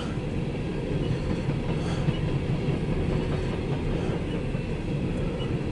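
Empty coal train's hopper cars rolling past with a steady low rumble, heard from inside a car.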